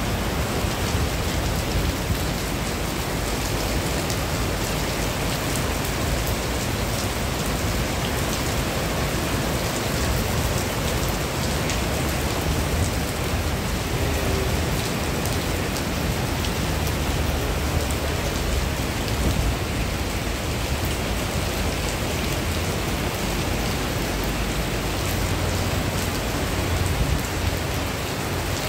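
Heavy rain falling steadily on paving, grass and trees: a dense, even hiss of rain on hard wet surfaces.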